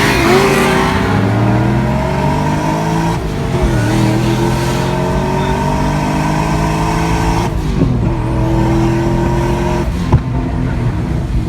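Car engine accelerating hard, its pitch climbing, then dropping at an upshift about three seconds in and again about seven and a half seconds in, before holding steadier. A single sharp pop comes about ten seconds in.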